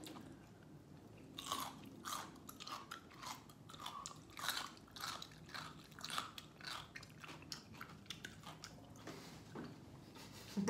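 Crunchy chewing of sweet-and-sour pickled radish cubes. It is a quick, irregular run of crunches that starts about a second and a half in and eases off near the end.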